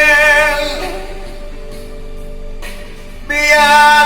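Elderly man singing a slow ballad over instrumental backing. A held sung note fades about a second in, the backing plays on more quietly, and the voice comes back strongly near the end.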